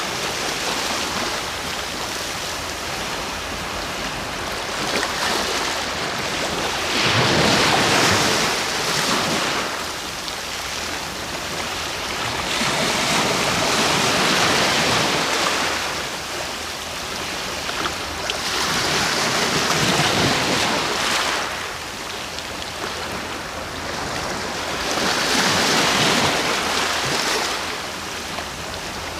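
Sea waves breaking and washing on the shore, with the surf swelling and ebbing about every six seconds.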